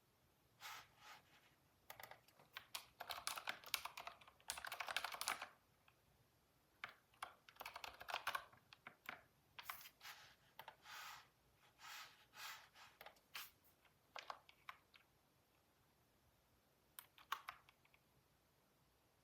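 Computer keyboard typing in quick bursts of key clicks with pauses between them. The densest run comes about five seconds in, and a last short burst near the end.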